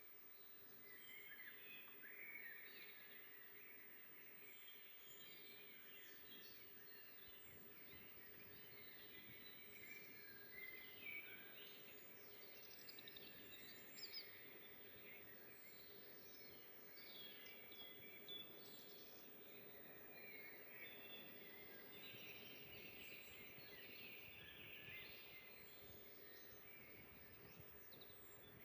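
Several songbirds singing and calling at once, faint, with short chirps and trills overlapping throughout over a soft steady hiss.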